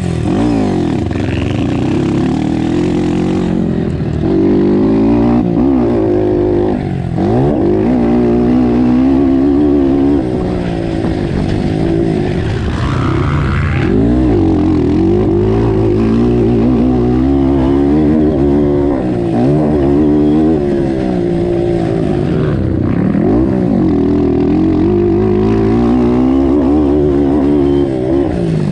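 Motocross dirt bike engines running hard, their pitch rising and falling again and again as the throttle is worked around the track.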